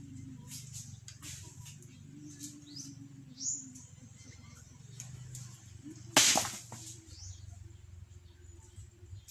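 Birds giving short, falling chirps over a steady low hum, with one loud, brief crash-like burst of noise about six seconds in.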